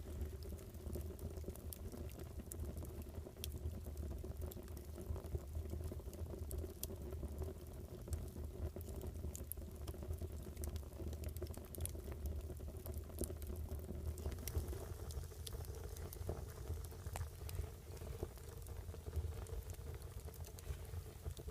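Fire burning with a steady low rumble and scattered sharp crackles and pops throughout.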